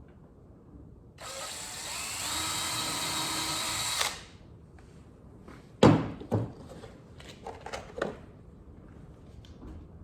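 DeWalt drill driving a screw into soft pine, running for about three seconds and stopping abruptly. Then a loud sharp knock, a second knock, and several lighter clicks and knocks.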